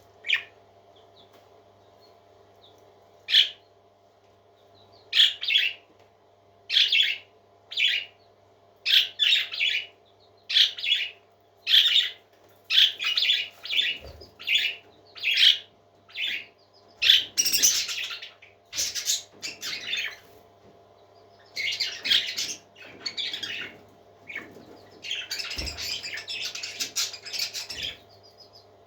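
Baby parrot chicks calling: short harsh, high-pitched calls, sparse at first and then about one a second, running together in a longer stretch near the end. A steady low hum lies underneath.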